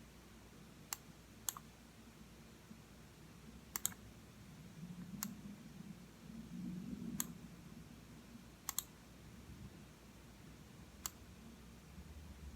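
Computer mouse button clicking at irregular intervals, about seven clicks with two quick double-clicks, over a faint low rumble in the middle.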